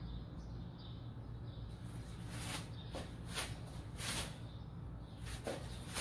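Faint bird chirps over a steady low hum, with a run of short hissing bursts from about two seconds in.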